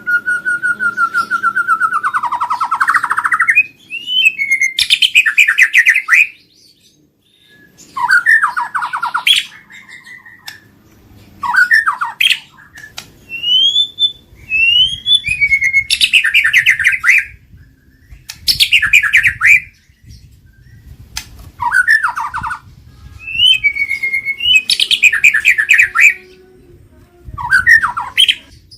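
White-rumped shama (murai batu) singing. Its song comes in loud, varied phrases of clear whistles, rising slurs and fast rattling note series, about nine of them with short pauses between.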